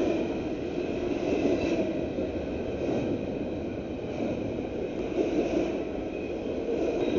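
A Union Pacific freight train's cars rolling past beneath the bridge: a steady rumble of wheels on rail, with faint high steady tones above it.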